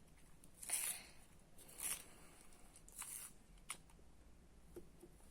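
Three short scraping, rustling sounds about a second apart, then a sharp click and a few light ticks, from colored pencils and stationery being handled at a table.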